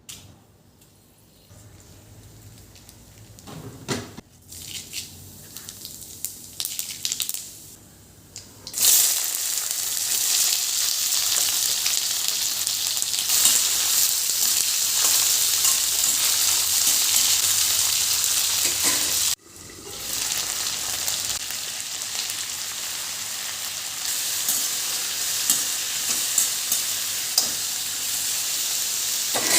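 A few light knocks and clatters of kitchen utensils, then about nine seconds in food goes into hot oil in a pan and a loud, steady sizzle of frying starts. The sizzle breaks off for a moment about twenty seconds in and picks up again.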